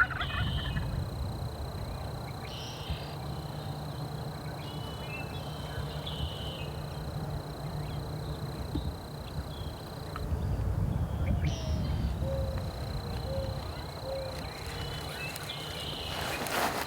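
Low steady outdoor rumble, with faint short bird calls now and then and a few short low calls in a row about twelve seconds in.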